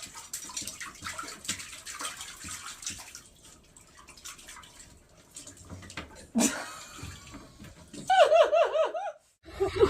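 Water splashing and sloshing in a bathtub, with scattered small knocks and one sharp knock a little past the middle. Near the end comes about a second of a loud, warbling cry from a dog, its pitch wobbling quickly up and down.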